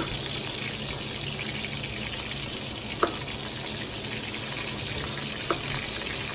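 Food sizzling steadily in a pan, with a knife striking a cutting board three times, a few seconds apart, as red potatoes are sliced.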